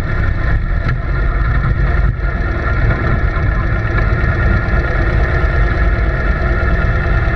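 A steady mechanical drone with a strong low rumble, like a running engine, unchanging throughout.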